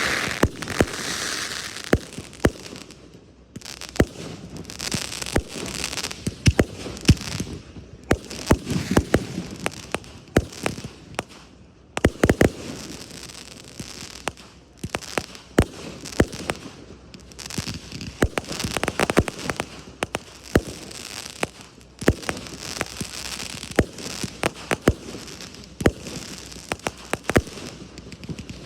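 Fireworks display: many sharp bangs going off one after another, with crackling and hissing between them.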